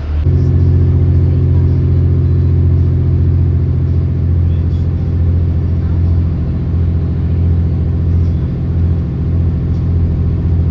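An engine running steadily with a low, even drone. Its note grows louder and fuller just as the sound begins and then holds.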